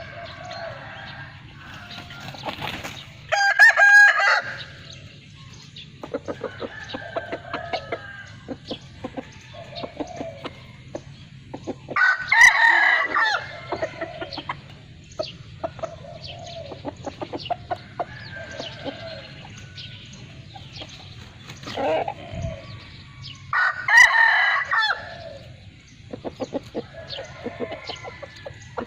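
Chickens clucking in short repeated calls, broken by three loud crows about ten seconds apart, over a steady low hum.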